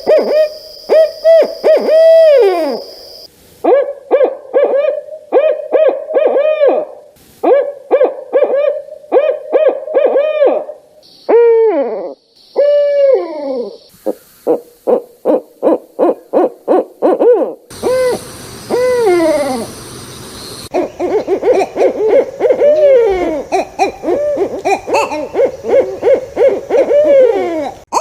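Barred owls hooting in rhythmic series of deep spaced notes, many phrases ending in a long downward-sliding note. Several recordings follow one another, the later ones with more than one owl calling over each other.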